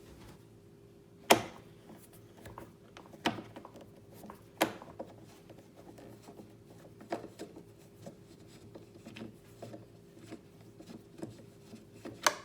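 Irregular clicks and knocks from the plastic housing of a Bosch Zoo'o ProAnimal vacuum cleaner being handled and taken apart by hand, over a steady low hum. The sharpest clicks come about a second in and again near the end.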